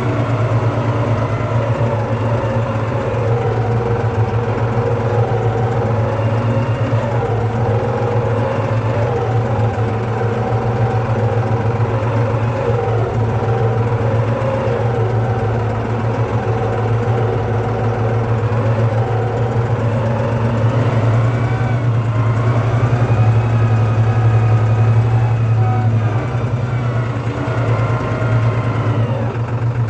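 Tractor's diesel engine running steadily, pulling a four-furrow plough. Its note rises and dips a little as the load changes and is slightly louder near the end.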